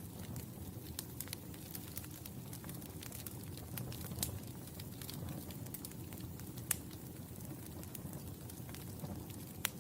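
Fire in a fireplace crackling: a steady low rush from the flames with many small snaps and a few sharper pops, the loudest about four, six and a half, and nine and a half seconds in.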